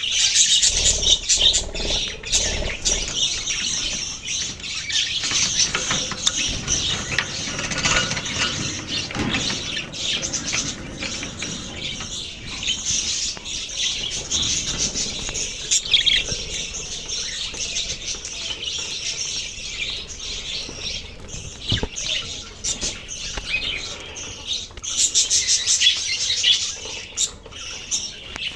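A flock of budgerigars chirping and chattering together: a dense, continuous high twittering of many overlapping short calls.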